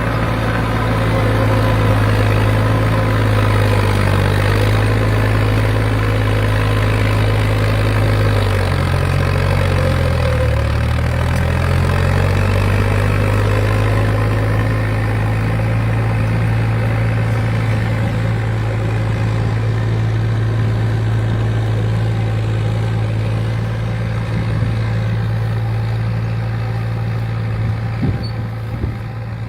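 John Deere 350-B crawler dozer's diesel engine running steadily, its note dipping and rising again about a third of the way in.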